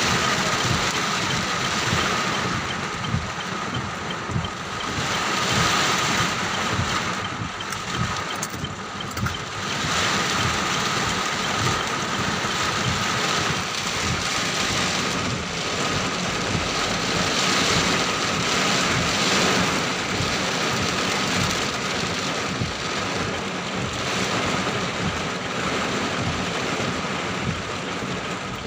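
Heavy downpour in strong, gusty wind, the rain a steady loud rush that swells and eases every few seconds, with wind buffeting the microphone.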